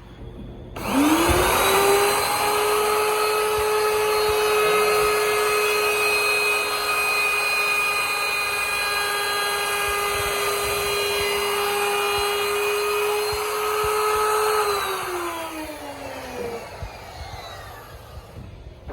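Trim router's electric motor starting up with a rising whine, running steadily at full speed, then switched off and winding down with a falling whine.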